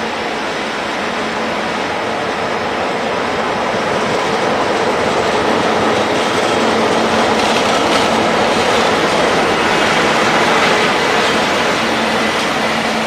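Taiwan Railway freight train rolling into the station: a steady rumble and clatter of wagon wheels on the rails, growing a little louder after the middle.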